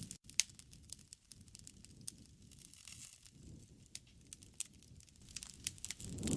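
Wood fire crackling, with irregular sharp pops and snaps over a soft low rush of flames that swells and fades.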